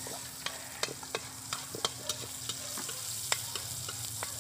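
Garlic and onion sizzling in oil in a wok, stirred with a metal spatula that clicks and scrapes against the pan several times a second.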